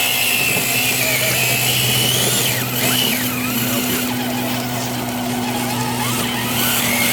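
Electric motor and gearing of an RC vehicle whining steadily, its pitch dipping and climbing again a few times with the throttle.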